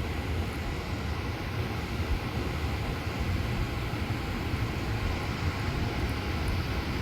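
Steady rumble and hiss of a vehicle driving along the road, unchanging throughout.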